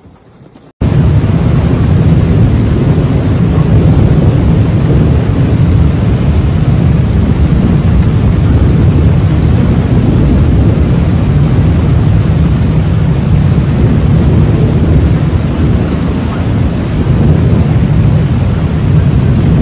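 Torrential rainstorm noise, loud and steady with a deep rumble underneath, cutting in abruptly about a second in.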